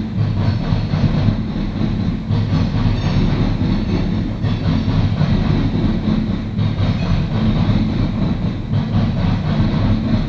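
Coal train's loaded hopper cars rolling past on steel rails: a steady low rumble of wheels on track with irregular clicking over rail joints.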